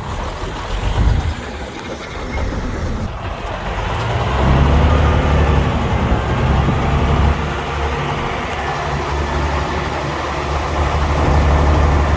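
A bulldozer's diesel engine running at work, settling into a steady low drone about four seconds in.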